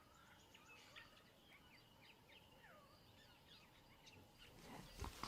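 Faint wild bird calls, many short chirps and gliding whistles, over quiet natural ambience. A louder noise sets in right at the end.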